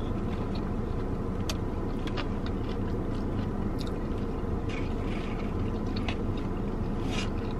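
A person chewing a mouthful of fried chicken finger, with scattered short, soft mouth clicks, over a steady low hum inside a car cabin.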